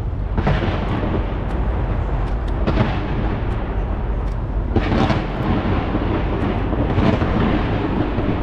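New Year fireworks going off from the sides of a skyscraper: a continuous low rumble of bangs and crackle, with a louder burst about every two seconds.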